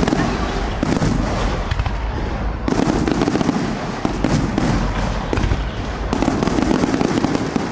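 Fireworks display: aerial shells bursting one after another with a dense run of bangs and crackles.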